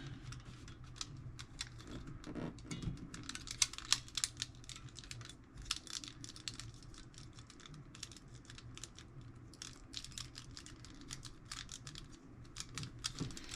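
Irregular light clicks and ticks of small metal tool box parts being handled, like the rattle of screws and a drawer lock mechanism, with the loudest clicks about four seconds in.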